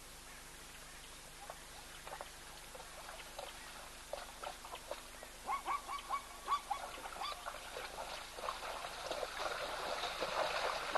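Birds calling: scattered short calls, then a quick run of about six short, repeated calls about halfway through, followed by denser, overlapping calling toward the end.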